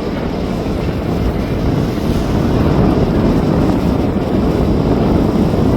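Aircraft engine noise heard from outside: a steady rumble that grows slightly louder, mixed with wind buffeting the microphone.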